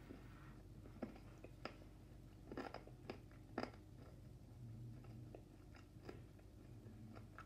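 Faint mouth sounds of someone chewing Toblerone milk chocolate with crunchy almond nougat, with a run of sharp crunches between about one and four seconds in and softer ones after.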